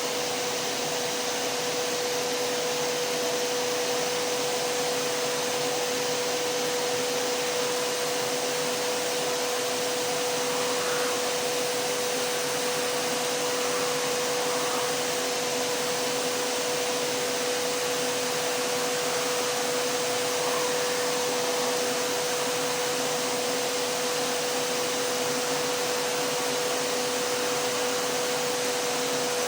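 Vacuum cleaner motor running steadily: a dense, even rush of air noise with a constant whine-like hum and no change in speed.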